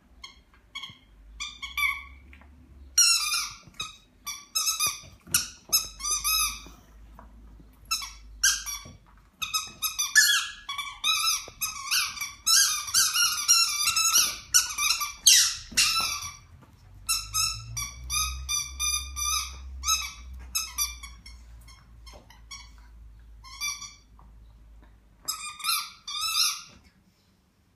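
Squeaky dog toy being bitten over and over by a pug, giving short, pitched squeaks in irregular clusters.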